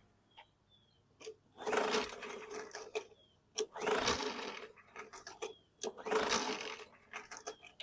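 Recoil starter of a Briggs & Stratton 450E push-mower engine pulled three times, the engine turning over without firing. The no-start was traced to a tight safety brake cable holding the coil kill on.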